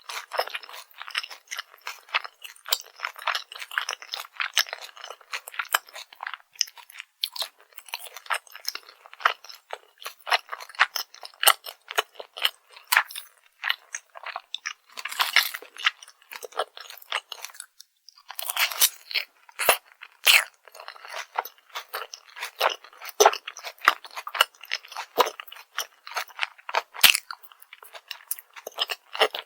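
Close-miked crunching and chewing of crispy fried food: a steady run of small crackles, with a few louder crunching bites about halfway through.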